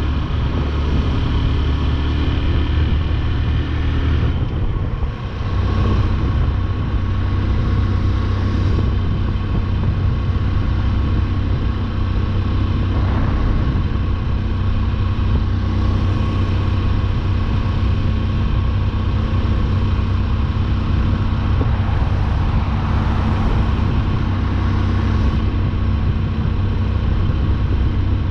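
Motorcycle engine running steadily at cruising speed, heard from the rider's seat. About five seconds in the level dips briefly and the engine note changes.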